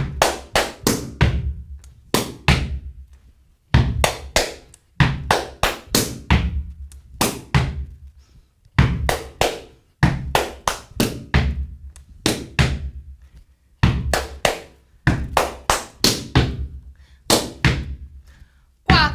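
Gumboot dancing: claps, hand slaps on rubber boots and stamps on a platform, in repeated phrases of several quick strikes with short pauses between them.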